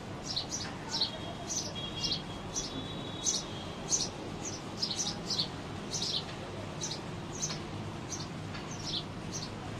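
Small pet birds chirping: short, high, falling chirps about two a second, with a thin held note under them for a couple of seconds near the start, over a steady low hum.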